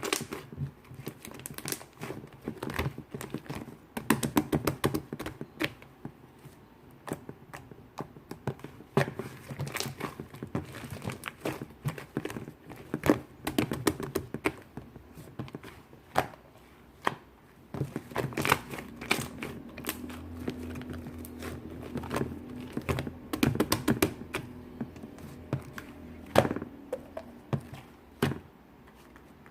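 Shaving foam being mixed: a run of irregular wet crackling clicks and soft taps, some closer together and some spaced out.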